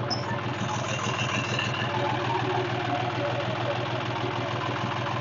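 A John Deere 5310 tractor's diesel engine idling steadily.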